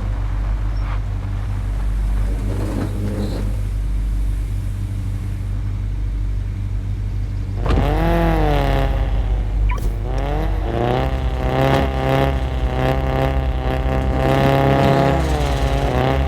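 Straight-piped Volkswagen Golf 7 exhaust idling with a low rumble. About eight seconds in it is revved: a quick rev up and back down, then revs held higher and rising and falling.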